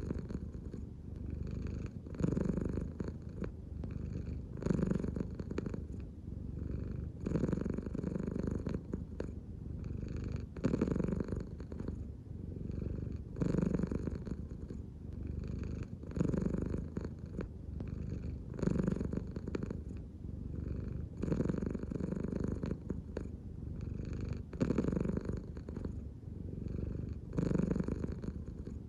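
American Shorthair cat purring steadily, the purr swelling louder about every two and a half seconds with each breath.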